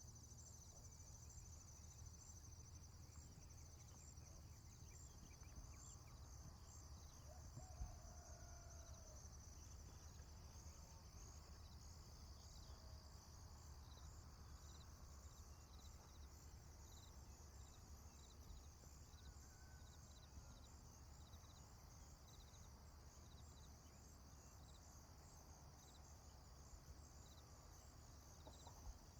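Faint rural ambience: crickets chirping steadily in a high, pulsing trill over a low rumble, with a few faint bird calls now and then.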